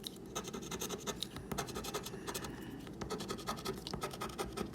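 Rapid, repeated scratching of a coin or scraper across a lottery scratch-off ticket, rubbing off the latex coating in quick strokes.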